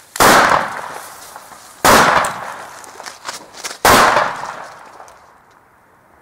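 Firecrackers going off: three loud bangs about two seconds apart, each followed by a fading echo.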